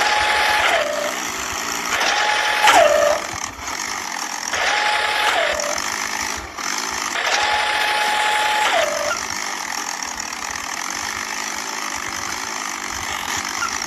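A motor whining at a steady pitch in four runs of about one to two seconds each, its pitch dropping as each run stops, over a steady mechanical running noise.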